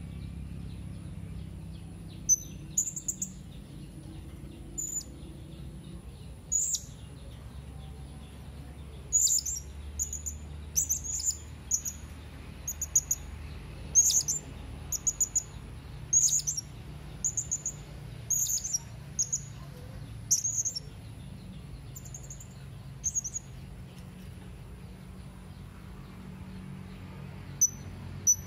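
Serindit (hanging parrot) calling: short, sharp, high-pitched chirps, some single and some in quick runs of several notes, with irregular gaps, busiest in the middle, over a steady low hum.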